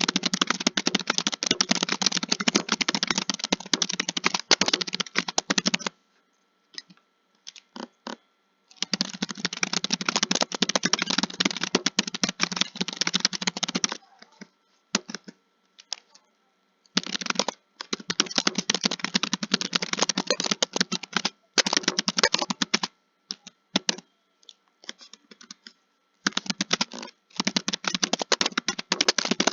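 Fast typing on a computer keyboard, a dense patter of keystrokes in runs of several seconds. Between the runs come pauses of about three seconds with only a few scattered keystrokes.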